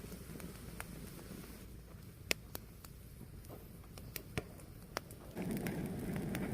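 Fire burning with a low rush of flames and scattered sharp crackles and pops; the flame noise swells louder about five seconds in.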